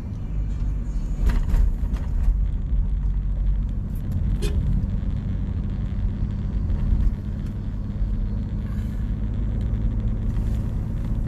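Steady low rumble of a moving car, with a few brief clicks early on and again about four and a half seconds in.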